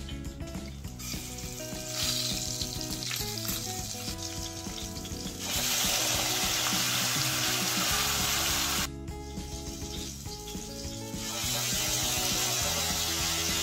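Hot oil sizzling with frying mustard seeds, green chillies, curry leaves and fennel seeds, then a much louder sizzle about five and a half seconds in as onion-tomato paste is poured into the hot oil. The sizzle drops briefly about nine seconds in and comes back loud near the end.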